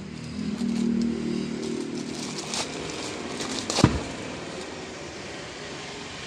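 Stanley STGS9125 angle grinder running, its motor hum strongest in the first two seconds, with one sharp knock about four seconds in.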